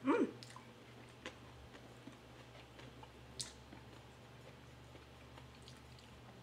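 A person chewing food quietly with the mouth closed, with scattered faint clicks and mouth smacks as food is picked up and eaten by hand. A brief rising hum right at the start.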